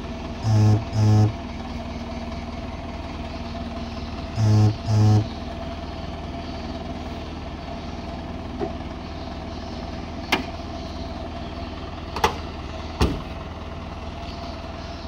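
Ambulance pickup's engine idling steadily while it warms up. A horn sounds two quick double honks in the first five seconds. Near the end come a couple of sharp clicks, then a heavier bang as the bonnet is shut.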